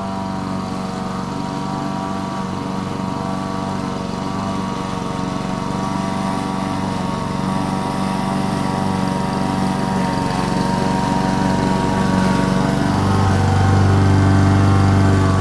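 Lawn mower engine running steadily while cutting grass, growing gradually louder. About 13 seconds in, a stronger, deeper hum sets in.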